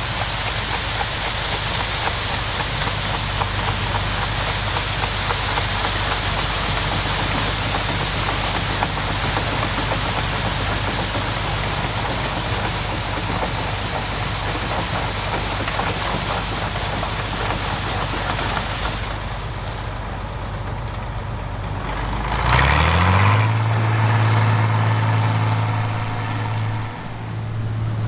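John Deere 105 combine running: a steady engine drone under an even rushing noise of the machine at work. About two-thirds of the way through the rushing fades, then the engine pitch rises and settles into a louder, steady drone, with a brief dip shortly before the end.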